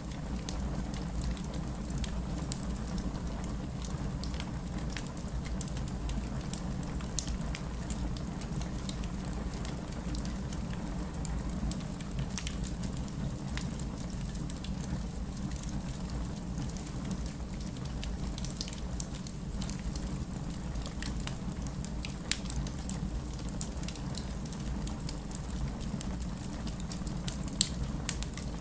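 Wood fire burning in a fireplace: a steady low rumble of flame under constant small crackles and pops from the burning logs. A few sharper pops stand out, about 7 s in, about 22 s in and near the end.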